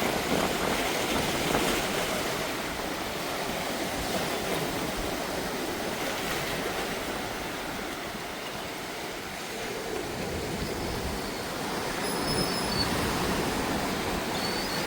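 Steady rushing sea noise, like water and surf, with no distinct events.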